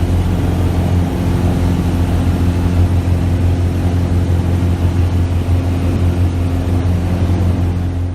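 1973 Cessna 177B Cardinal's four-cylinder Lycoming engine and propeller running at a steady speed, a loud, even drone.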